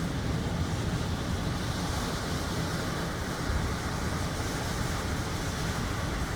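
Sea waves surging and washing with wind buffeting the microphone: a steady rushing noise over a heavy, uneven low rumble.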